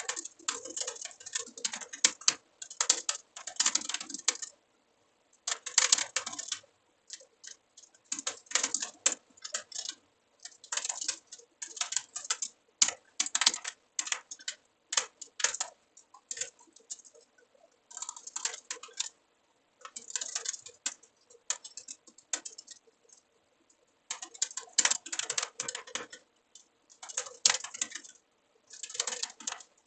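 Computer keyboard typing in quick bursts of keystrokes, each run lasting a second or two, with short pauses between.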